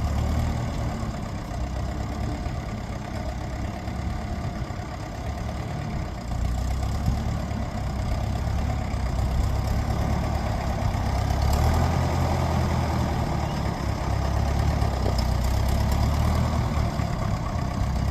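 Vintage Ferguson tractor engine running steadily, getting louder about six seconds in and staying so.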